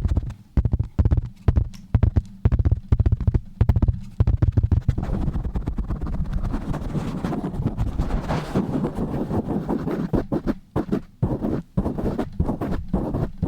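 Fast, rough ASMR handling right on a microphone: rapid pumping and rubbing strokes with deep thumps, which run together into a denser continuous scratching-and-brushing noise about midway, then break back into quick separate strokes near the end.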